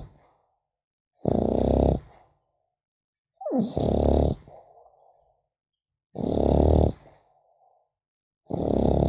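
French bulldog puppy snoring in its sleep: four snores about two and a half seconds apart, each under a second long, with silence between. The third starts with a short falling whistle.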